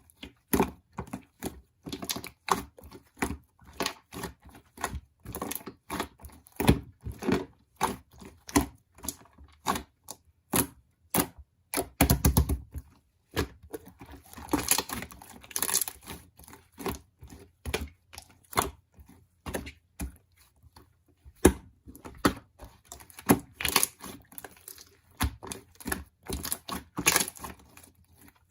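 Pink slime being pressed, poked and stretched by hand, giving quick irregular clicks and pops. A couple of longer crackly stretches come near the middle.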